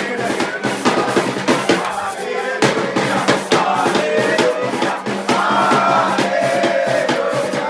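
Christmas carol music: a group of voices singing over a steady drum-kit beat.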